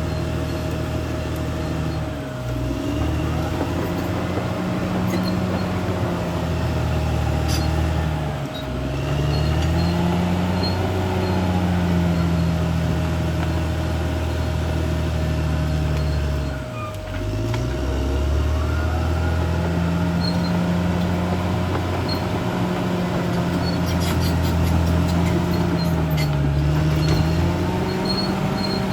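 CAT D6R XL bulldozer's diesel engine running hard while the machine works, its pitch dipping briefly and recovering about four times, with a steady whine over it.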